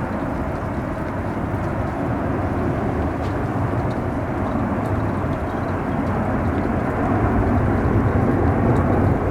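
Jet airliner engine noise, a steady rushing that grows louder over the last few seconds.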